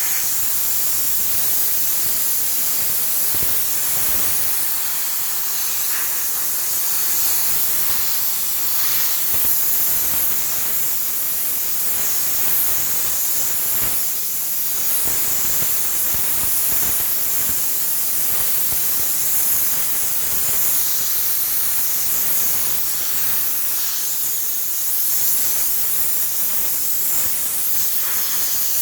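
Steam cleaner's wand jetting steam in a steady, loud hiss, with small flickers in the spray.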